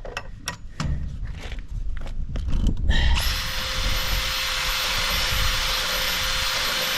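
A few knocks, then about three seconds in a power drill starts and runs steadily with an even whine, boring a bolt hole through a wooden gate.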